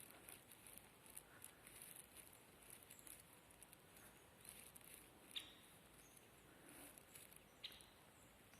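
Near silence with faint, high-pitched chirps of distant birds scattered throughout, and two sharp clicks, one about five seconds in and one near the end.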